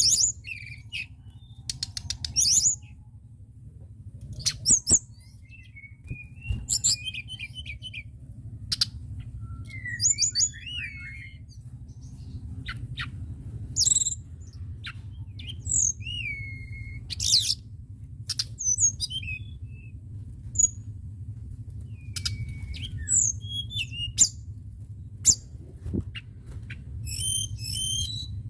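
A caged tledekan gunung songbird singing a loose series of sharp, high chirps, quick trills and short gliding whistles, broken by brief pauses. A steady low hum runs underneath.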